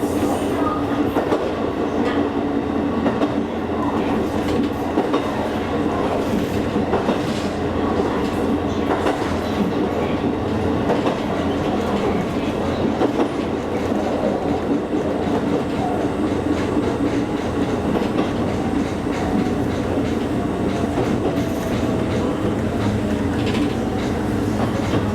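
Kakogawa Line electric train running along the track, heard from inside the carriage: a steady rumble of wheels on rail, with scattered clacks over the rail joints.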